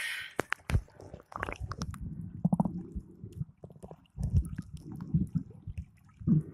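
Muffled gurgling and rumbling of water around a camera held underwater, in uneven bursts with scattered sharp clicks and knocks.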